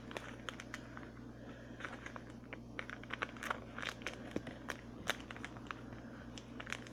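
A sheet of paper rustling and crinkling in the hands as it is folded and creased, with many short, irregular crackles.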